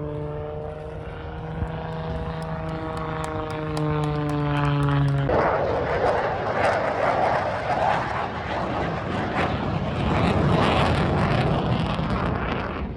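Propeller aircraft engine drone, a steady pitch that slowly sags, during an air show flypast. It cuts off abruptly about five seconds in and gives way to a louder rushing noise of an aircraft passing, which fades slightly near the end.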